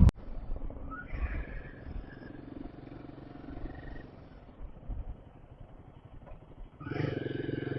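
Motorcycle engine running under way: a faint low rumble that becomes louder and steady about seven seconds in.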